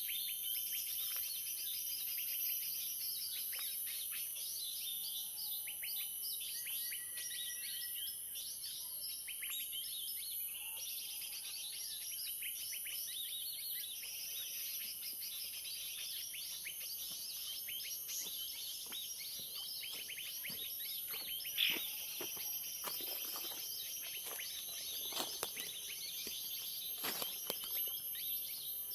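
Dense, unbroken chatter of many small birds chirping and calling together, the 'commotion' (keributan) lure recording used in bird trapping, with a steady high hiss underneath. Several louder, sharp downward-sweeping calls stand out in the last third.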